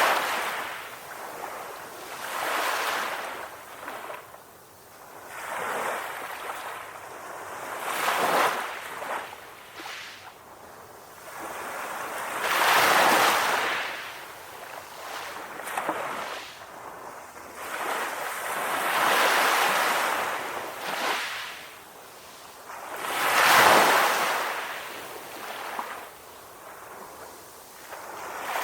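Ocean waves washing ashore, each swell of surf rising and falling every few seconds, with a few stronger waves breaking among them.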